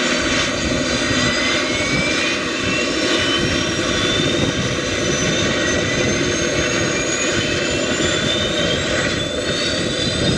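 Scale RC helicopter (Align T-Rex 600) running: a steady rushing noise with several thin whines gliding slowly upward in pitch.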